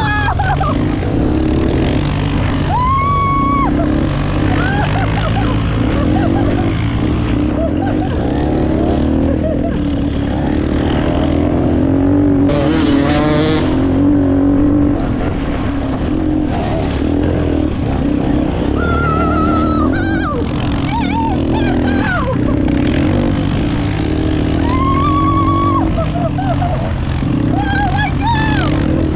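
Off-road motorcycle and quad engines running on a grass field track, revving up and dropping back again and again as the riders accelerate and slow round the corners. About 13 seconds in comes a brief rush of noise.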